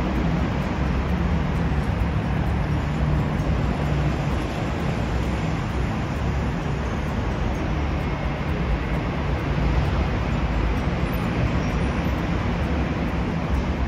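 Train running past: a steady rumble with a low hum underneath, holding level without a break.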